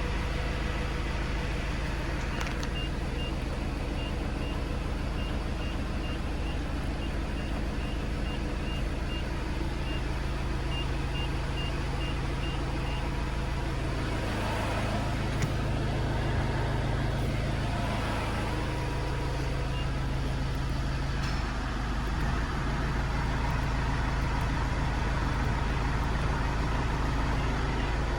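Iveco Daily 35S14's 2.3-litre four-cylinder diesel engine idling steadily. For about ten seconds, starting shortly in, a high electronic beep repeats about twice a second over it.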